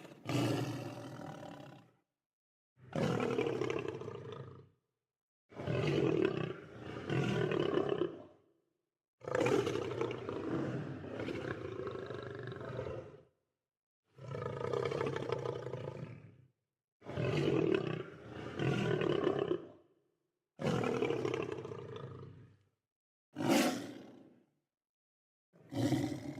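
Lion roars, a run of about nine separate deep calls, each one to four seconds long. They are cut apart by short gaps of dead silence, as in recordings edited back to back.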